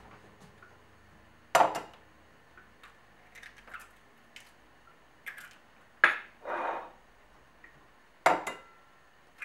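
Eggs cracked against the rim of a ceramic bowl: three sharp knocks, each with a short crackle after it, and softer clicks and taps in between.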